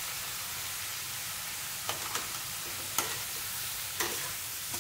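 Chopped flat beans frying in oil in a metal kadai, a steady sizzle, while a flat metal spatula stirs the spice powders through them, knocking against the pan four times.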